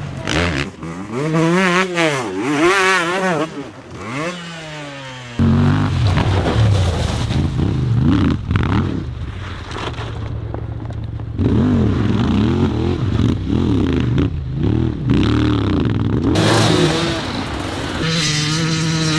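Enduro dirt bike engines revving up and down in repeated throttle bursts. The sound changes abruptly a couple of times where separate clips are cut together.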